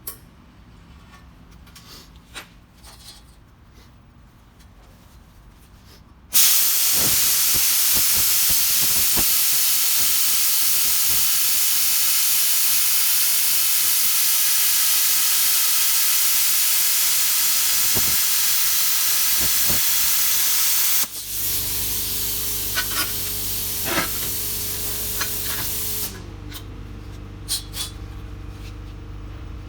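Handheld plasma cutter cutting through a steel cutter head: a loud, steady hiss of the air-plasma arc starts suddenly about six seconds in, runs for about fifteen seconds and cuts off. After it, a lower steady hum with a few clicks continues.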